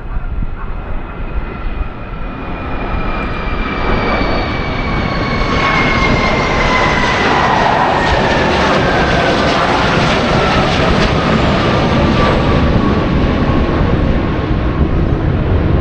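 Aircraft flying over low, its engine noise building to a peak mid-way with a whine that falls steadily in pitch as it passes.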